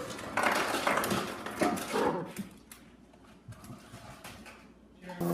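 A dog vocalizing in a few short bursts over the first couple of seconds, then going quiet.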